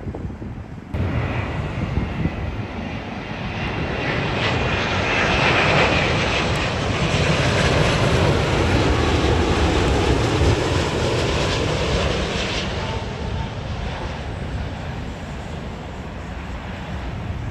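Jet airliner passing by, its engine noise building to a peak around the middle and then fading, with a whine that drops in pitch as it goes past.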